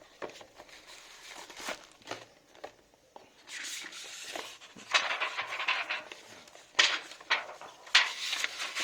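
A product's packaging box being handled: rubbing and rustling with scattered small clicks and knocks, busier from about halfway through, with two sharper knocks near the end.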